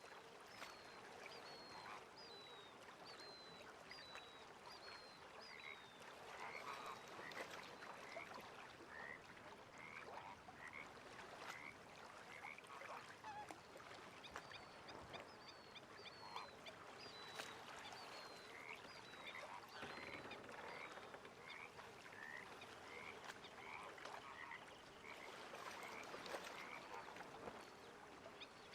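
Faint lakeside wildlife calls: short high notes repeated in runs of about two a second, over a soft steady hiss.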